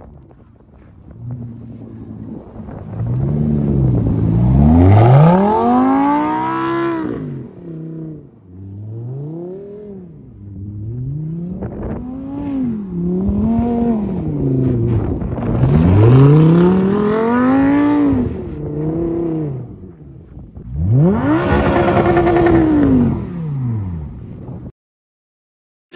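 Lamborghini Huracán's V10 engine revving hard in about five surges, its pitch climbing and falling with each one as the car powerslides on snow. The surges are loudest around five and sixteen seconds in, and the sound cuts off abruptly near the end.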